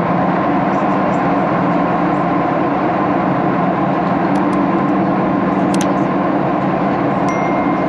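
Steady cabin drone inside a Boeing 737-800 in flight: the hum of its CFM56-7B jet engines mixed with the rush of air over the fuselage, with a few faint light clicks about halfway through.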